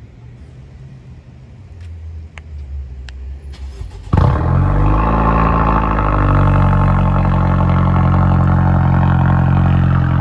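Kia Stinger 2.0's turbocharged four-cylinder engine cold-starting by remote start: it fires up suddenly about four seconds in, flares briefly, then settles into a steady fast cold idle.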